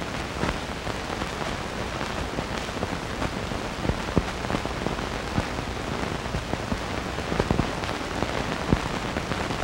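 Steady hiss with scattered crackles and pops and a faint low hum: surface noise of an old film soundtrack.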